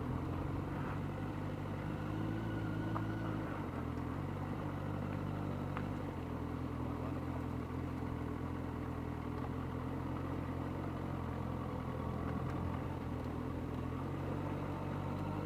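Motorcycle engine running steadily while riding, with road and wind noise; the engine note shifts slightly about four seconds in.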